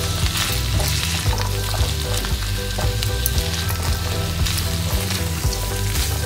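Chicken and mixed stir-fry vegetables sizzling steadily in a hot wok while a spatula keeps stirring and tossing them, with many quick light clicks and scrapes against the pan.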